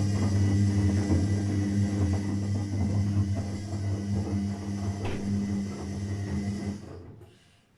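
Electrolux PerfectCare 600 EW6T5R261 washing machine with its drum turning: a steady motor hum with a high hiss over it, the normal running noise of this machine. The hum dies away near the end as the drum stops.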